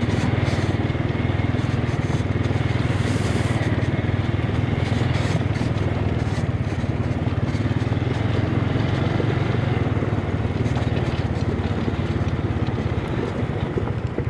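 A motorbike engine running steadily while riding, at an even speed with no clear revving.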